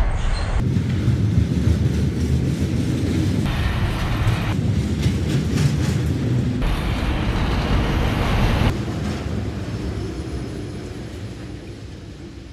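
Freight train cars rolling past at close range: a steady, heavy rumble of wheels on rail from double-stack intermodal container cars and autorack cars. The sound jumps abruptly a few times and dies away over the last few seconds.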